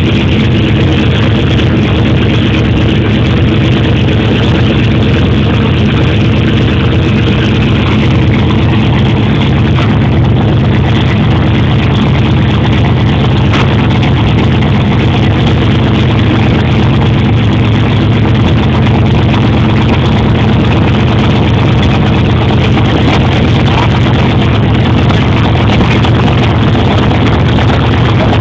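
Twin-turbocharged 440 cubic-inch LSX V8 idling steadily, with no revving.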